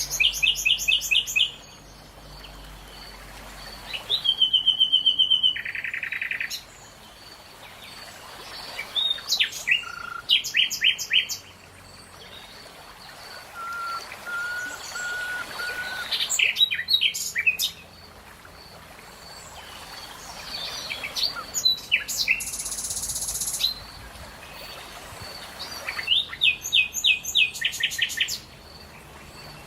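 Songbirds singing: short bursts of rapid repeated chirps every few seconds, with a short run of lower clear whistled notes about halfway through and a high buzzy trill later on, over a faint steady outdoor background.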